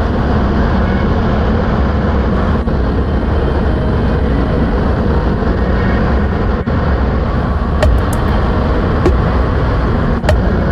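Motorbike on the move: steady engine and road noise, with a few sharp clicks near the end.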